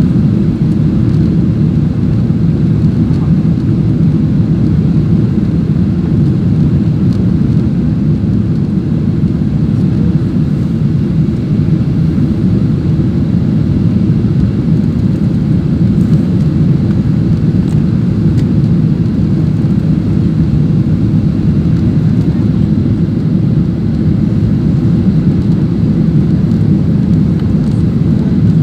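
Steady drone of an airliner cabin in flight: engine and airflow noise, a constant low rumble with no change.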